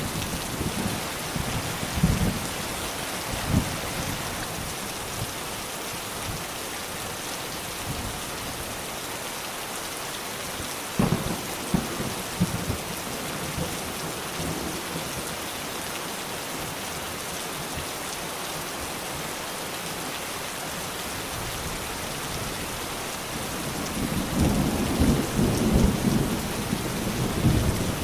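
Steady rain falling, with a few short low thumps and a longer low rumble of thunder building up near the end.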